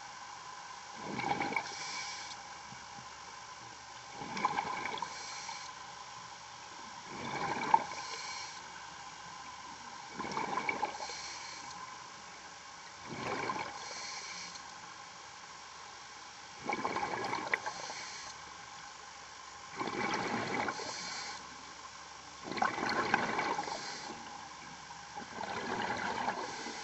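Scuba diver breathing through a regulator underwater, a surge of breath and bubbles about every three seconds, over a steady background hum.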